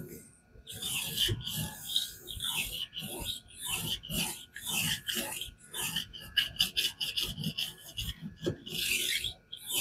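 King whetstone rasping back and forth along a knife's edge in a guided fixed-angle sharpener, in repeated gritty strokes a little under two a second. The strokes turn quicker and shorter after about six seconds, then one longer stroke comes near the end.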